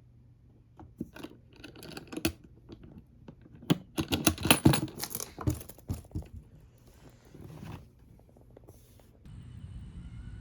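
Rustling, scraping and clicking handling sounds, densest about four to five seconds in. About nine seconds in they give way to a steady background hum.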